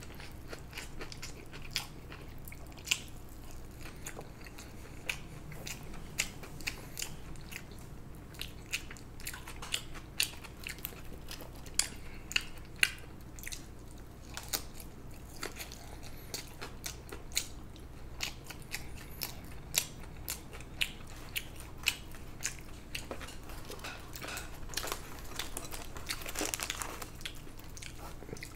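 A person eating: chewing and biting food, with many irregular sharp crunching clicks and wet mouth sounds.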